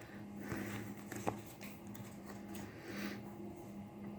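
Faint rustling and a few small clicks of sticker sheets being handled, over a low steady hum.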